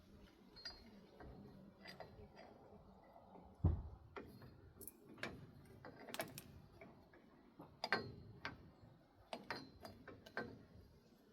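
Irregular metallic clicks and knocks of hand tools working on a truck's front axle parts, with one heavier thump a little over a third of the way in.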